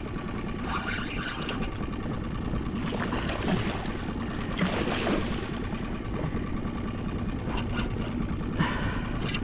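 Steady low hum and wash of a small fishing boat at sea, with wind and water noise.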